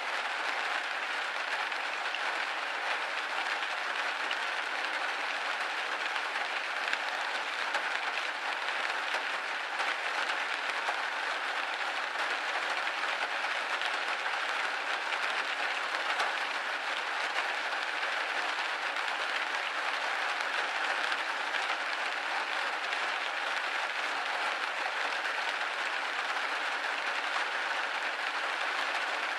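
Rain pattering steadily on a window pane, a dense even hiss of drops with no thunder or low rumble.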